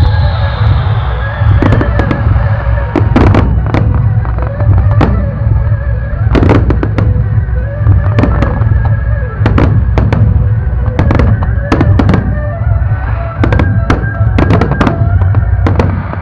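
Fireworks exploding in an irregular series of sharp bangs, several a second at times, with music playing underneath.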